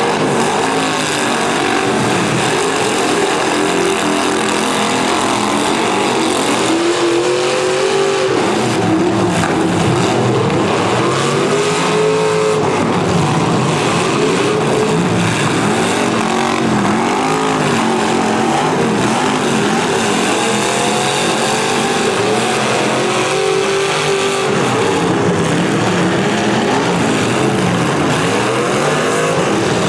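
Several V8 demolition derby car engines revving and running at once, their pitches rising and falling as the cars accelerate and back off.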